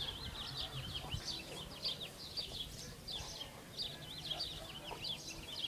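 Many birds chirping busily: a dense, unbroken run of short, quick chirps.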